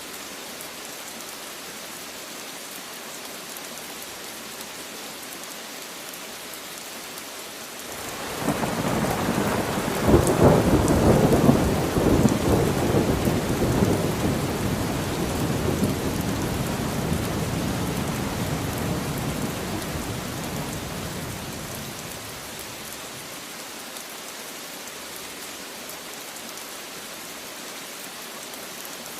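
Steady rain hiss with a long roll of thunder that swells in about a third of the way through, is loudest a few seconds later, and slowly rumbles away over some ten seconds.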